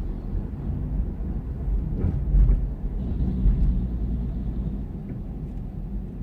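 Low, steady rumble of a running vehicle engine, with a few knocks about two seconds in.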